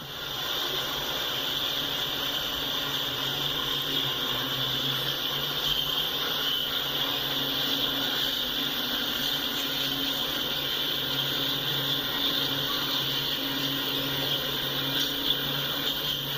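Union Pacific Salad Bowl Express freight train running past, a steady, unbroken rolling noise.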